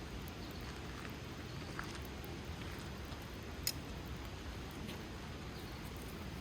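Campfire burning with a steady low rush and scattered faint crackles and pops, one sharper pop a little past halfway.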